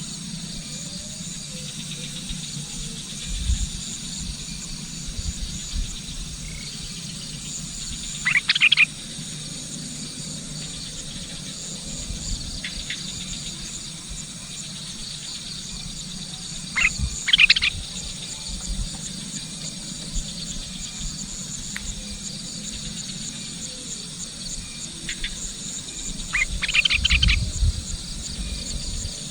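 Sooty-headed bulbul (kutilang) calling in three short bursts about nine seconds apart, over a steady high chirring of insects.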